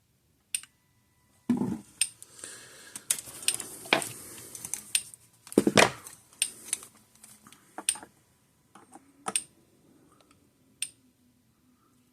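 Metallic clattering and handling noise, then the Parmak Magnum 12 electric fence charger pulsing on the bench: a sharp click about every one and a half seconds, showing the repaired charger is firing.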